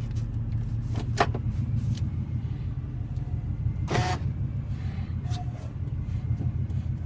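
Supercharged 5.4-litre V8 of a 2000 Ford F-150 idling steadily through headers and holed Flowmaster mufflers, with a low, even rumble. Two brief sharp clicks come about a second in and about four seconds in.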